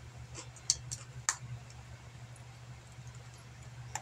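A person chewing crunchy coated pretzels with her mouth closed: a few crisp crunches and mouth clicks in the first second and a half, then fainter chewing, over a faint low steady hum.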